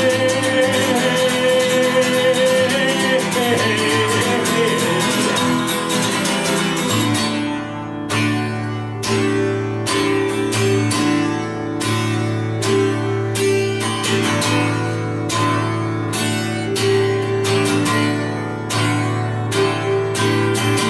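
Acoustic guitar strummed in a steady rhythm through an instrumental passage of a song. In the first few seconds a long held note wavers and fades out.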